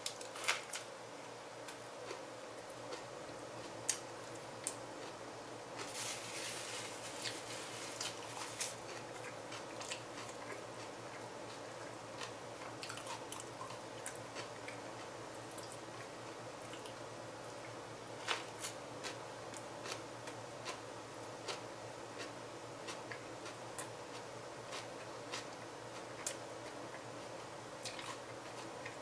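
A person biting into a sub sandwich and chewing it, with scattered wet mouth clicks and a denser stretch of chewing about six to nine seconds in, over a steady low background hum.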